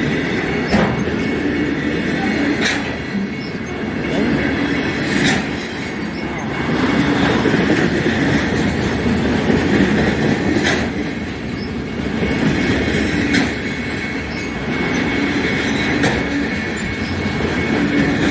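Freight train's cars rolling past, wheels clicking over rail joints at irregular intervals, with a thin steady wheel squeal.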